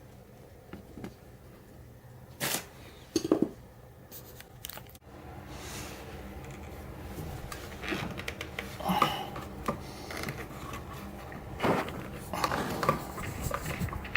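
Scattered clicks, knocks and rustling of objects being handled, with two sharper knocks about two and a half and three and a half seconds in, and busier handling noise in the second half.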